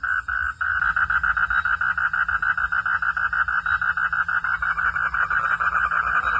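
Frogs calling in a rapid, evenly pulsed chorus at one steady pitch. Under a second in, the pulses abruptly quicken to about eight or nine a second.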